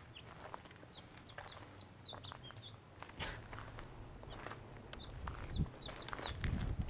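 Short, high bird chirps repeated in quick clusters, with a few footsteps crunching on dirt and gravel.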